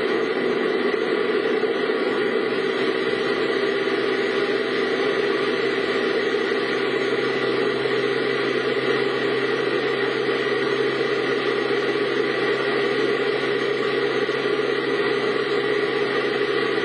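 Steady vehicle driving noise: an even engine and road hum that does not change.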